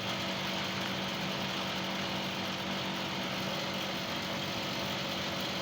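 Split air conditioner's outdoor unit running: a steady machine hum with a strong low drone over a broad rushing noise.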